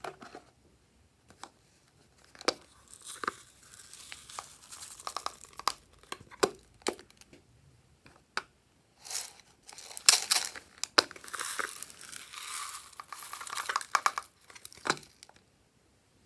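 Glossy slime being mixed and stretched, giving off irregular sticky crackling with sharp clicks and pops, sparse at first and densest in the second half.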